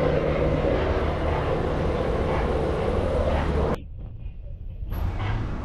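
Steady rumble of a car being driven, engine and road noise together. It cuts off abruptly about two-thirds of the way in and comes back quieter.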